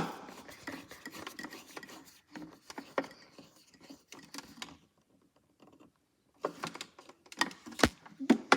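Scattered clicks, taps and rubbing from plastic toy washing machine parts being handled and screwed back together. There is a silent gap about five seconds in, then a run of sharper clicks near the end, the loudest about eight seconds in.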